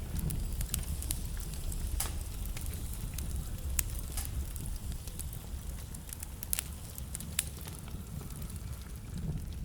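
Wood fire burning in a fireplace: a steady low rumble of flames with sharp crackles and pops scattered irregularly, a few louder pops standing out.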